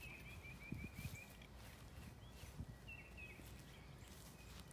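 Quiet outdoor ambience with a bird giving a quick series of short, high chirps, which stop and then start again about three seconds in. A few soft low thumps come about a second in.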